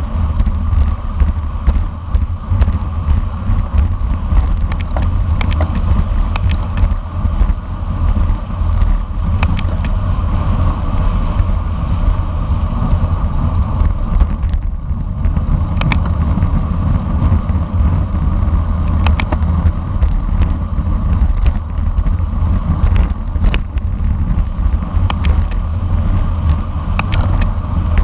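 Wind rushing over the microphone of a camera riding along in a bicycle road race, with a heavy, constant low rumble. Scattered sharp clicks and knocks run through it.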